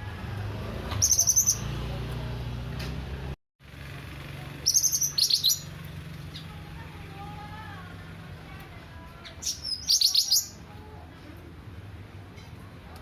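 A cucak ranting songbird calls in three short bursts of rapid, high repeated notes: about a second in, around five seconds and around ten seconds. A few softer, lower whistles come between the bursts, over a steady low hum.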